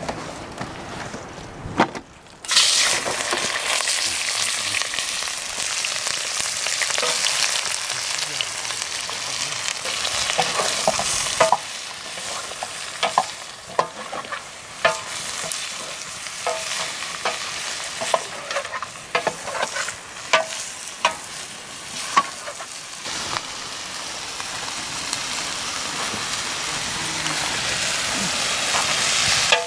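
Chicken pieces sizzling in hot oil in a pot, the sizzle starting suddenly about two seconds in as the meat goes in, with a metal ladle clinking and scraping against the pot as the pieces are stirred.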